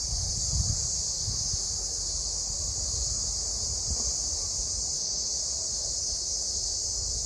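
Cicadas in a steady chorus, a continuous high-pitched buzz that neither starts nor stops, with wind rumbling on the microphone underneath.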